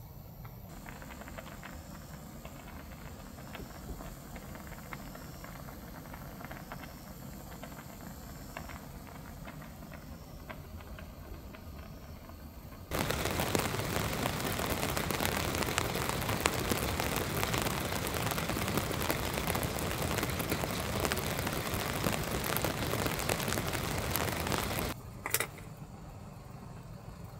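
Rain and strong wind on a light truck: a low wind rumble with scattered raindrop ticks, then about halfway through, a sudden much louder, dense crackling rain hiss that stops abruptly near the end, followed by a single click.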